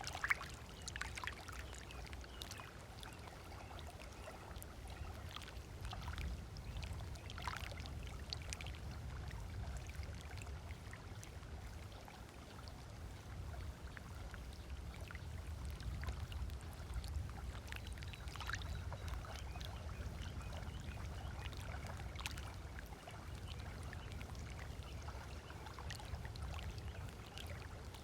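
Small waves lapping and splashing on a sandy lakeshore, with scattered short bird calls and a low steady rumble underneath.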